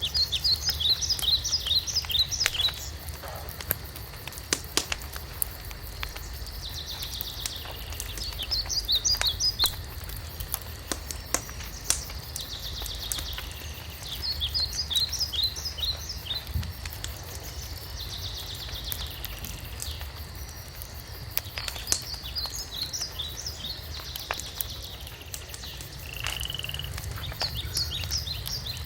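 Wood fire crackling with scattered sharp pops over a low steady rumble, while a songbird repeats a short song of quick, falling high notes every several seconds, with buzzy trills in between.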